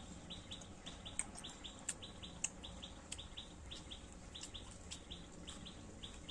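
A bird chirping steadily, short high notes repeated a couple of times each second, with a few sharp clicks in between.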